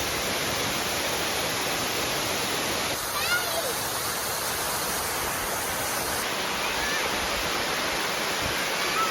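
Waterfall rushing with a steady, even roar of falling water, with faint distant voices briefly heard over it.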